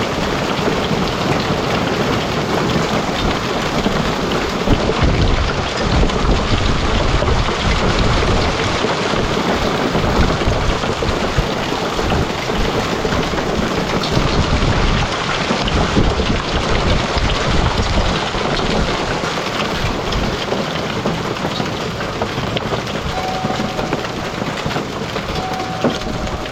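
Quarter-sized hail and heavy monsoon rain pelting down in a dense, steady hiss full of small impact clicks, with low rumbling of thunder.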